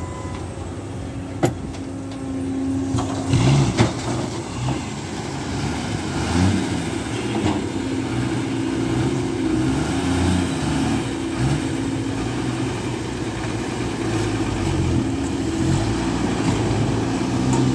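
Heavy diesel earthmoving machinery running, its engine pitch stepping up and down as it works, with a sharp click about a second and a half in and a couple of knocks shortly after.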